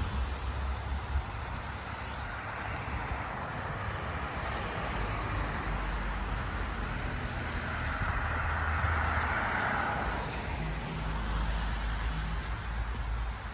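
A car driving past, its noise swelling to its loudest about nine seconds in and then fading, with wind rumbling on the microphone.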